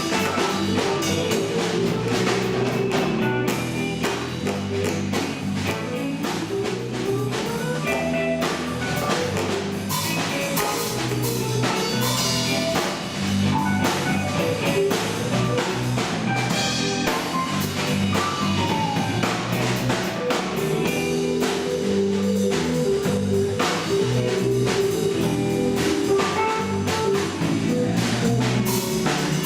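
A band playing an instrumental passage, with a drum kit keeping a steady beat under guitar.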